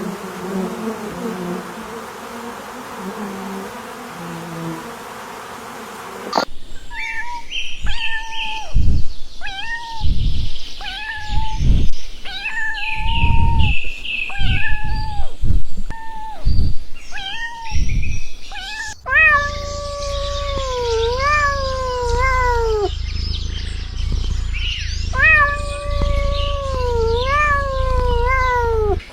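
Cats meowing over and over: first a run of short meows about once a second, then longer meows that fall in pitch over a low steady hum. Before them, for the first several seconds, only a steady hazy background.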